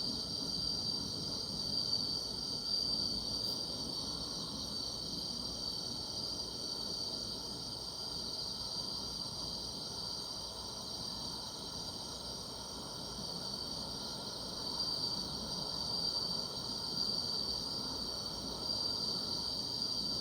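Night chorus of crickets and other grass insects, a steady high-pitched trilling.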